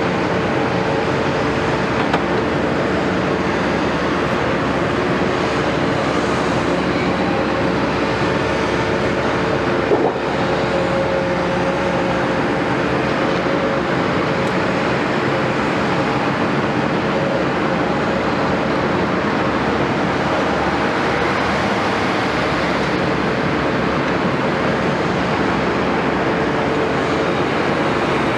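Caterpillar 329E excavator's diesel engine running steadily under work, a dense steady drone with held tones, and a brief knock about ten seconds in.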